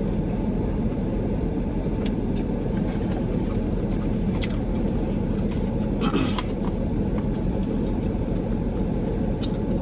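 Steady low rumble inside a car's cabin with the engine running, with a few faint clicks and a brief rustle about six seconds in.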